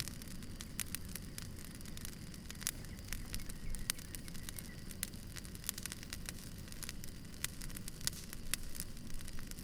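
Campfire crackling: irregular sharp pops and snaps of burning wood over a low, steady background noise.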